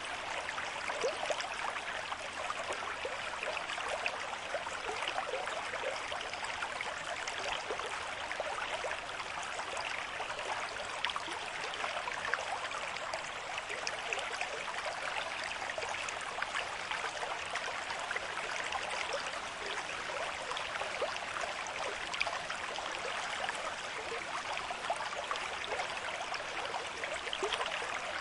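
River stream with moderate flow, water running and burbling steadily over stones with many small splashes.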